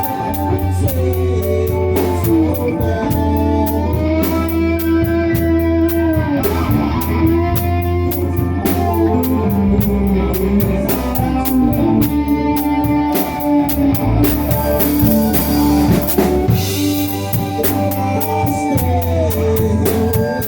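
Rock band playing: a drum kit keeps a steady beat with rimshots and bass drum under electric guitar lines that bend and glide in pitch, over a steady bass.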